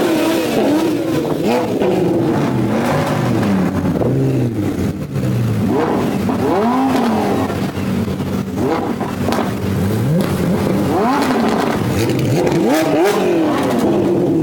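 Sports car engines being revved again and again, each rev a quick rise and fall in pitch, with more than one engine at times.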